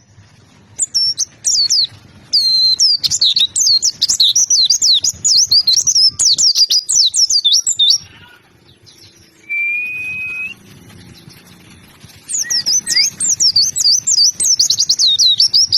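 A white-eye (pleci) singing a fast, high, twittering song of rapid sweeping notes. It breaks off around the middle, where a single steady whistle lasts about a second, then starts again near the end.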